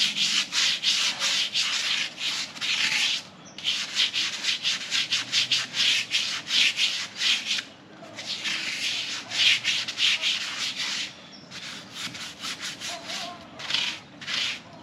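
Stiff cleaning brush scrubbing a motorcycle part in quick back-and-forth strokes, in several runs with short pauses between them.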